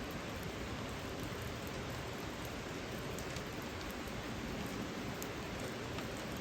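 Steady rain falling, an even hiss with many small drops ticking on surfaces.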